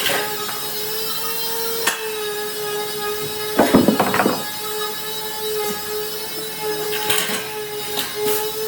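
Electric woodworking power tool running with a steady whine as it works wood, with a louder, rougher stretch of contact about four seconds in and a few sharp clicks.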